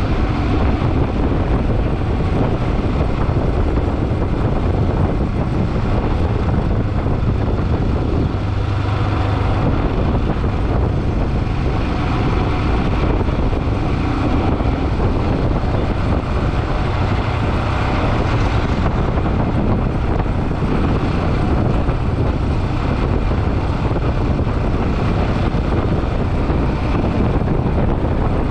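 Motorcycle riding along at road speed: steady engine and road noise mixed with wind rushing over the microphone.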